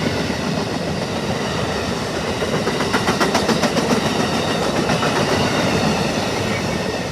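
Amtrak Lake Shore Limited passenger train passing close by: a steady rolling rumble of its cars. About three seconds in comes a quick run of wheel clicks over the rail joints.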